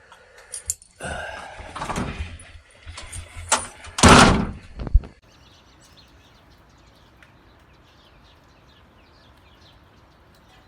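A house door being handled and shut, with knocks and rustling before a loud thud about four seconds in and a sharp click just after. Then only a faint steady hiss.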